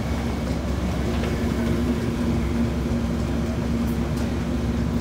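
Amtrak passenger train standing at the platform, its idling equipment giving a steady low mechanical hum with a couple of held tones.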